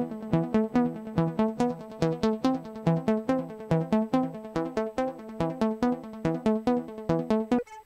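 Trance synthesizer riff: a fast, even pattern of short synth notes playing in a loop, dropping out briefly near the end as the loop restarts.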